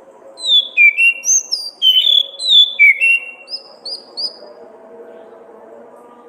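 Orange-headed thrush singing: a phrase of loud, clear whistled notes, each sliding downward, followed about three and a half seconds in by three short, higher notes repeated evenly.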